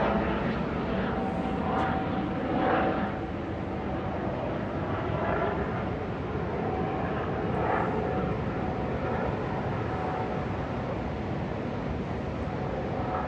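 MH-65 Dolphin helicopter flying past fast, a steady rush of rotor and turbine noise with a thin held whine, easing off slightly as it moves away.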